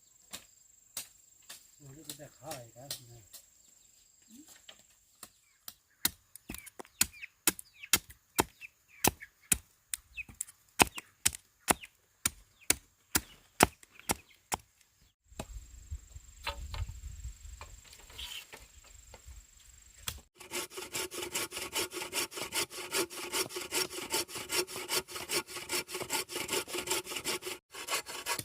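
Bamboo being cut by hand: a run of sharp chopping blows with a blade, about two a second, then a hand saw cutting through with quick, even strokes for the last several seconds.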